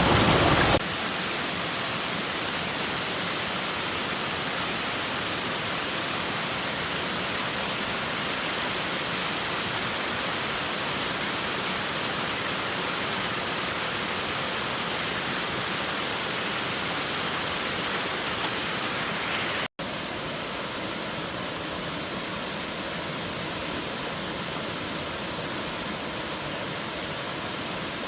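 Steady rushing water noise with no distinct events. It steps down in level just under a second in, breaks off for an instant about twenty seconds in, and comes back slightly quieter.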